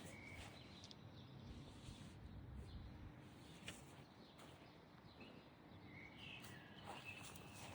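Faint short high-pitched animal chirps, once at the start and a few more about six seconds in, over low steady outdoor background noise.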